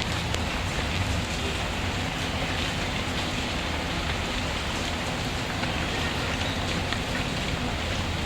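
Steady rain with a low rumble underneath, and scattered faint crackles from a wood fire.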